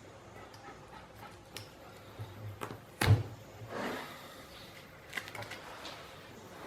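Faint scraping and small clicks of a scalpel cutting and peeling hide away from the base of a deer's antler, with one sharp knock about three seconds in.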